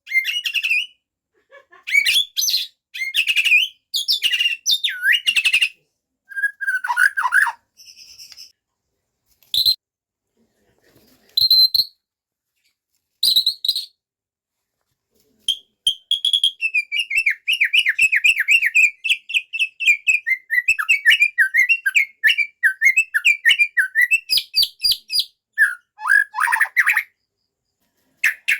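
White-rumped shama singing, bringing out its repertoire of mimicked songs: short varied whistled phrases with pauses between them, then a long fast chattering run in the second half.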